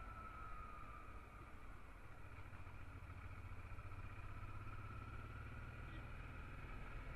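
Honda Transalp XL650's V-twin engine running steadily under way, a low rumble with a faint whine that dips in pitch early and then slowly climbs.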